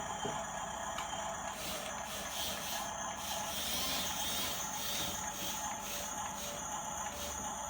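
Radio-controlled model bulldozer's small electric motors and gearing whining steadily, with the hiss rising and falling as the drive works.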